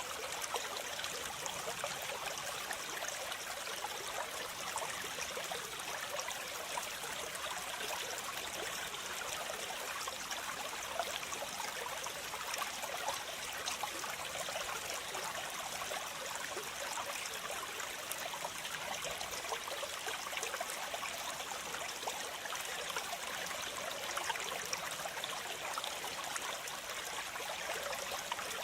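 Waterfall with water splashing and rushing, a steady hiss with a fine crackly spatter.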